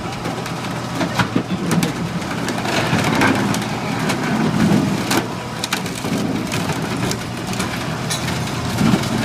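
A 1984 Ford Ranger pickup being crushed by heavy machinery: bending sheet metal creaking, with many sharp cracks and snaps throughout, over the machine's steady engine hum.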